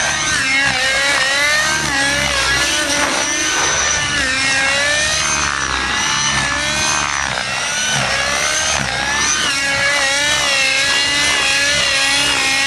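Nitro RC helicopter in flight, its glow engine running through a GP-Exhaust tuned pipe, the engine note wavering up and down in pitch continuously. It runs without a howl.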